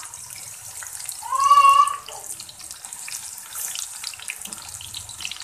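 Sliced onions frying in hot oil in a pan, a steady sizzle and crackle. About a second and a half in, a short high-pitched cry rises briefly over the sizzle and is the loudest sound.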